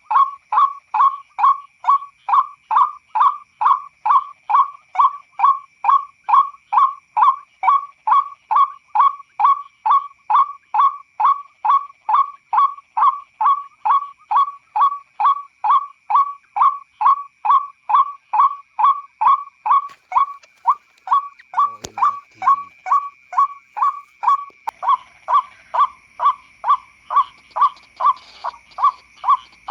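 White-breasted waterhen (ruak-ruak) call used as a lure, a monotonous "kwak" repeated about two to three times a second, over a steady high-pitched tone.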